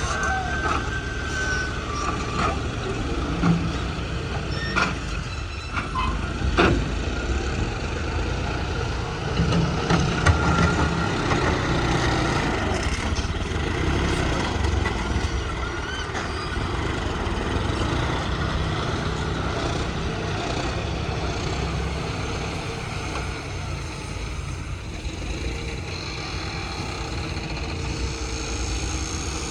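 Heavy diesel machinery running steadily, with a few sharp knocks between about three and seven seconds in.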